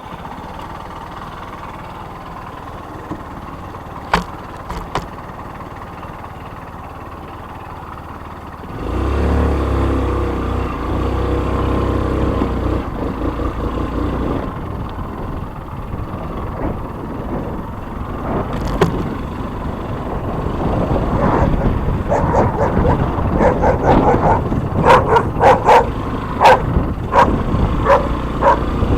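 A vehicle's steady low rumble, much louder from about nine seconds in. In the last seven seconds a dog barks over it repeatedly, about two barks a second.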